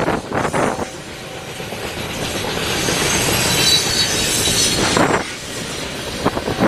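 Loaded coal cars of a freight train rolling past at speed, their wheels knocking over rail joints a few times, with a faint high wheel squeal a little past the middle.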